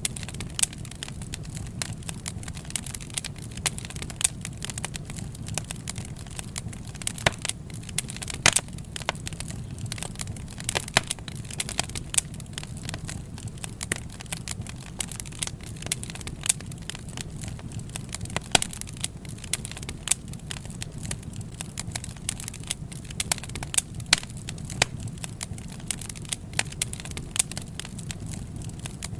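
Wood fire crackling, with irregular sharp pops scattered through it over a low steady rumble.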